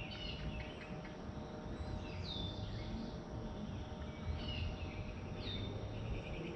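Songbird calls repeating every second or two, each a short call that slides down in pitch, over a low steady background rumble.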